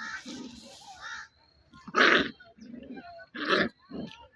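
Puppies play-fighting, growling, with two loud, harsh barks about two and three and a half seconds in.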